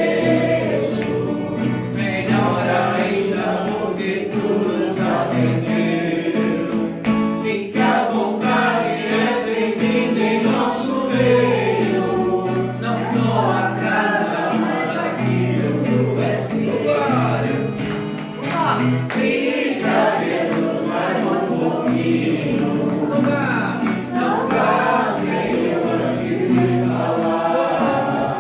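A group of voices singing a Christian worship song over instrumental backing with steady sustained bass notes.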